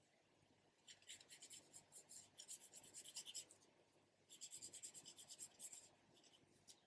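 Graphite pencil shading on paper: two runs of quick, faint scratchy strokes, with a short pause between, as tone is built up on a drawing.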